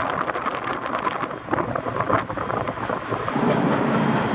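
Passenger carriages of a train rolling past, their wheels clicking over the rail joints in quick irregular clacks over a rushing rumble. A steady low hum joins about three seconds in.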